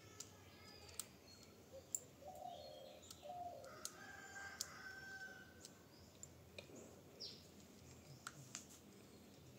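Near silence with a faint, drawn-out bird call starting about two seconds in and lasting a few seconds, and scattered light clicks from a metal spoon and a small bottle being handled.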